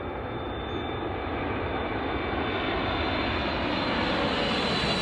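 Jet engines of a landing KLM Boeing 777: a steady rushing noise with a high whine that slowly grows louder.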